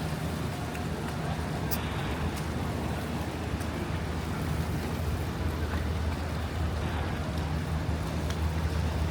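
Strong wind buffeting the camera's microphone in a steady low rumble, over the hiss of city street traffic.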